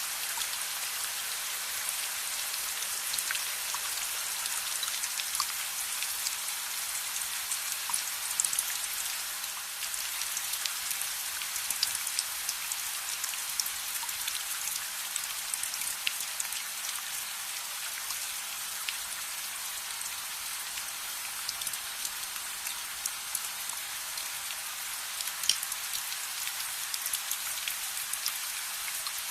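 Steady rain hiss mixed with a crackling fire: scattered sharp pops and ticks over an even rush, with a louder pop about 8 s in and another near the end.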